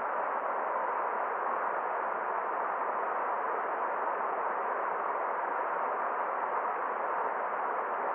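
Forest stream water flowing in a steady, even rush, with no separate splashes or drips standing out.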